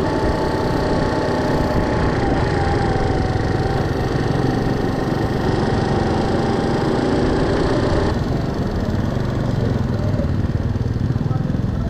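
Small motorbike engine running while riding along a road, with steady road and wind noise; the higher hiss drops back about eight seconds in.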